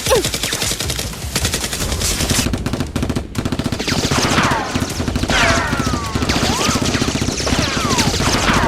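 Rapid automatic gunfire in long, near-continuous bursts, with a brief gap about three seconds in. From about four seconds in, high whistles falling in pitch, like bullets whizzing or ricocheting, sound over the firing.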